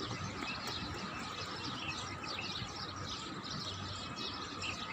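Small birds chirping, many short high calls repeating, over a faint steady background hum.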